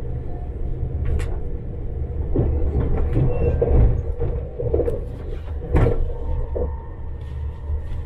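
Steady low rumble of a moving train heard from inside the passenger carriage, with a few sharp knocks and rattles; the loudest knock comes about six seconds in.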